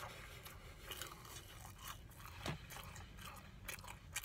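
A person chewing a mouthful of french fries close to the microphone: faint, irregular mouth clicks, with one louder click about two and a half seconds in.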